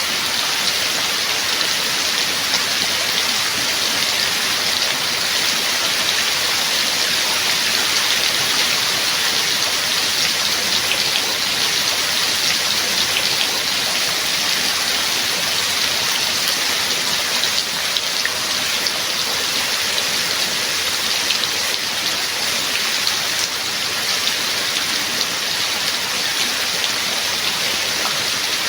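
Steady rain falling, an even dense hiss with scattered individual drops ticking through it.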